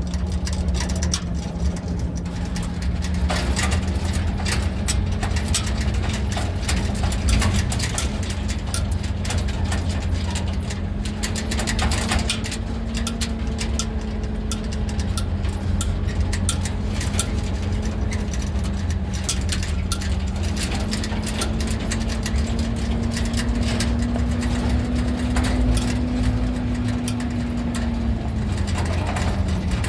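Car engine running steadily, its hum drifting slightly up and down, over low rumble with frequent small rattles and knocks.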